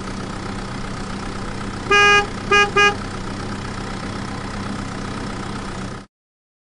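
A vehicle horn sounds over a steady engine drone: one long beep about two seconds in, then two short beeps. The drone cuts off suddenly near the end.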